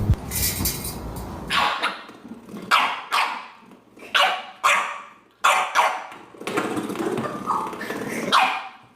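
A dog barking: a run of about nine short, sharp barks, some in quick pairs.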